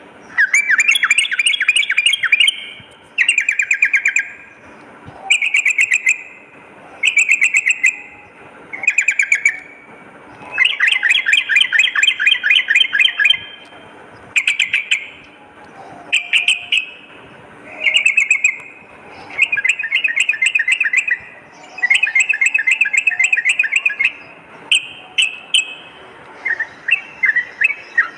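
Yellow-vented bulbul (trucukan) singing: phrase after phrase of quick chattering notes, each phrase one to three seconds long with short gaps between. Near the end the phrases break into shorter single notes.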